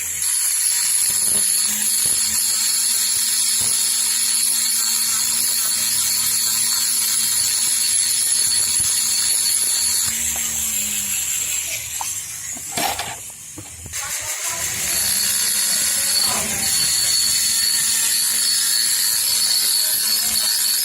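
A small electric motor of a handheld power tool, such as a drill or grinder, running steadily with a constant hum and a high whine. It winds down about eleven seconds in and starts up again about four seconds later.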